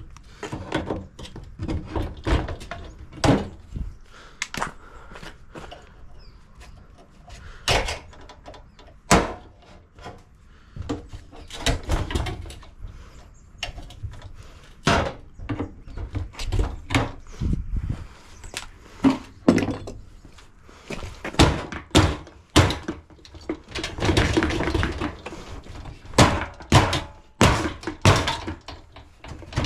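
Irregular knocks, thuds and clanks of hand tools on the steel of a dishwasher's door and frame as it is dismantled, busier in the last third.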